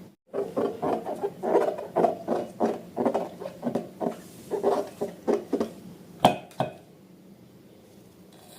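Slime being squeezed and worked by hand: a run of short wet squelches, about two or three a second, then two sharp clicks about six seconds in.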